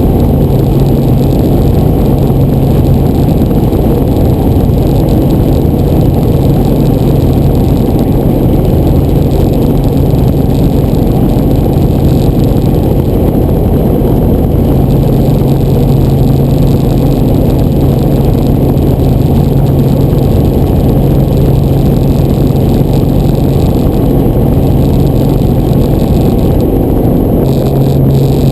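Helicopter engine and rotors running: a loud, steady, low drone. A low hum within it fades out a few seconds in and comes back about halfway through.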